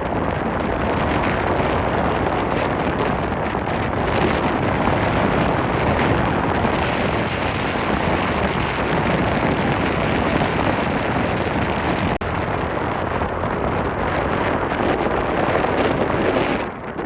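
Strong cyclone wind blowing across the microphone as a loud, steady rush of noise, with a brief lull near the end.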